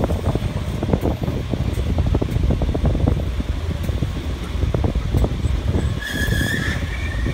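Commuter train running along the track: a steady low rumble with frequent knocks and rattles, and about six seconds in a high-pitched wheel squeal starts and keeps on.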